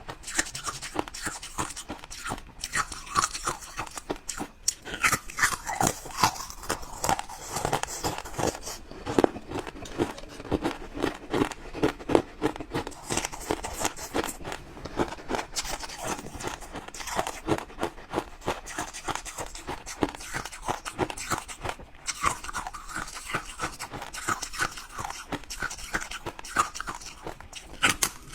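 Close-up crunching and chewing of ice: a steady run of sharp cracks and snaps as the ice is bitten and ground between the teeth.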